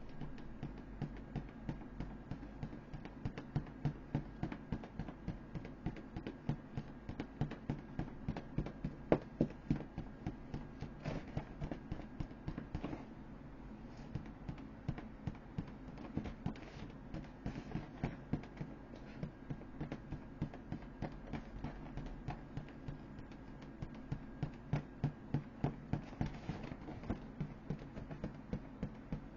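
An inflatable toy being jabbed or struck again and again with a hand tool while someone tries to puncture it: dull taps about three a second, with short lulls, over a steady low hum.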